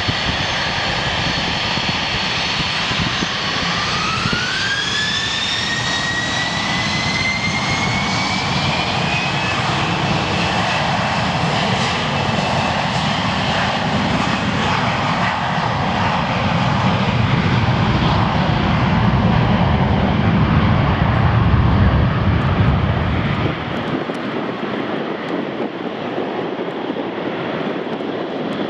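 Business jet's turbofan engines running, with a whine that climbs steeply in pitch a few seconds in as the engines spool up. A low jet rumble then builds and cuts away abruptly near the end.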